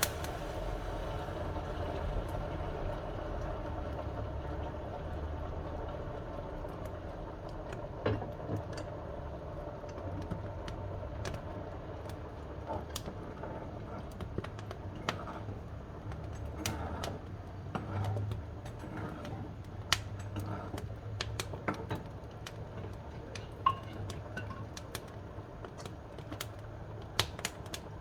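Wood fire crackling in a wood-burning stove: irregular sharp pops and snaps of burning wood over a low steady rumble.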